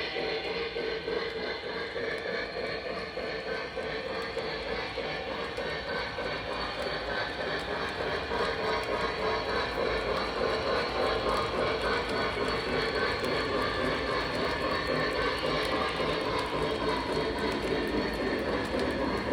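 Lionel Legacy Blue Comet O gauge model steam train running on its track, with a steady rolling rumble that grows slightly louder toward the end.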